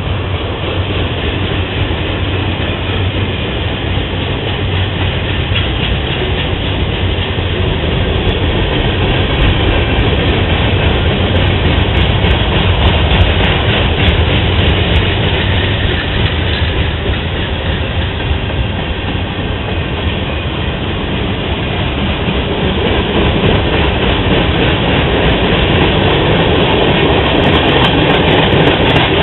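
A CSX train rolling past, the steady noise of its cars on the rails growing slowly louder toward the end.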